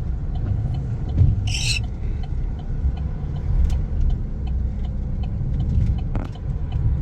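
Pickup truck cabin while driving: a steady low rumble of engine and road noise. A short hiss comes about one and a half seconds in.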